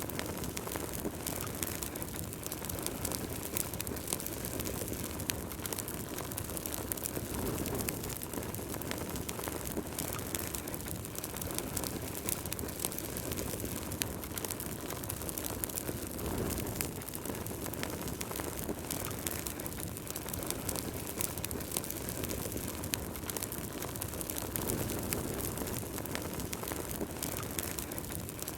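Wood fire burning in a fireplace: frequent sharp crackles and pops over a steady low rush of flame.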